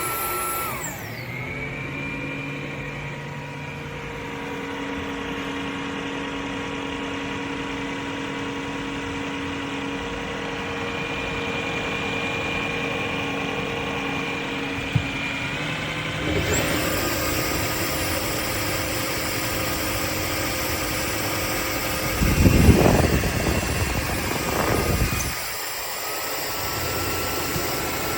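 Dreame H12S wet-dry vacuum's motor running steadily. It winds down about a second in, picks up to a higher, hissier speed about 16 seconds in, and runs loudly and roughly for about three seconds near the end before settling back to a steady hum.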